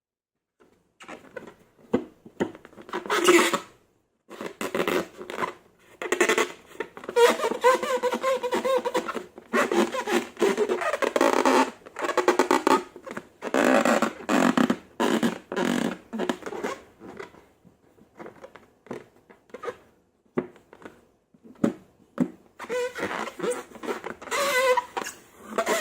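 Slime being squeezed and worked by hand, giving irregular wet squelches and fart-like air pops, starting about a second in.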